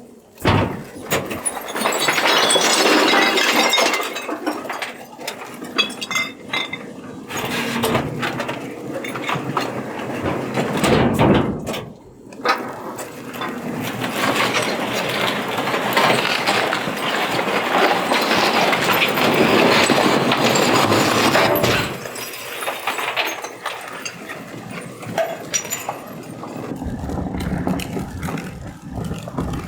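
Recyclables, glass among them, crashing and clinking in long stretches of clatter as they are dumped into a recycling truck, with the truck's engine running underneath.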